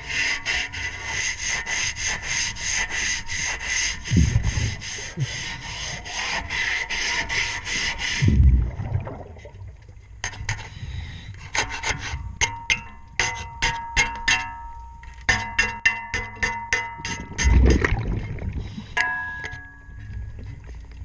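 Underwater scraping on a boat propeller, fast even strokes of about four a second. From about nine seconds in, the scraping gives way to sparser sharp clicks and ringing metallic taps. Three brief low swells of sound are heard along the way.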